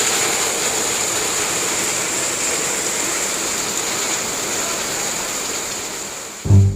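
Steady rain making an even hiss. Near the end it stops abruptly and plucked low string music comes in.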